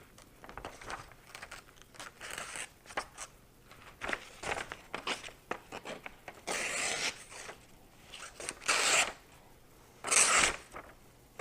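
Freshly sharpened kitchen knife making test cuts: a series of short, crisp slicing and tearing sounds, loudest in the last few seconds.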